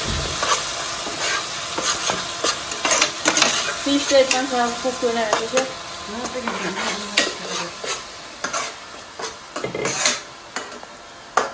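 Onion paste sizzling in hot oil in a nonstick pan while a spoon stirs it, clicking and scraping against the pan. The sizzle fades away as the mixture cooks down.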